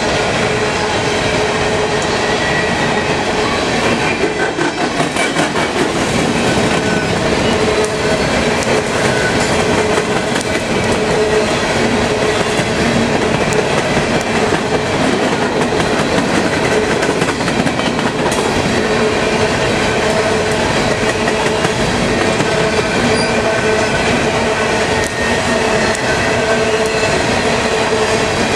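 Empty coal hopper cars of a long freight train rolling past at speed, loud and steady. Under the rumble of the wheels on the rails runs a steady ringing tone, with faint repeated clacks.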